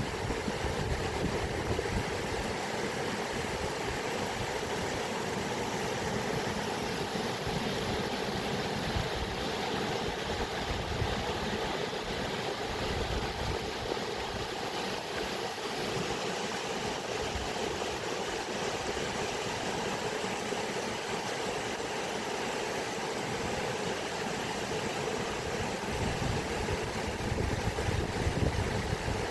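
Running water rushing steadily, like a stream or small waterfall, with an uneven low rumble underneath.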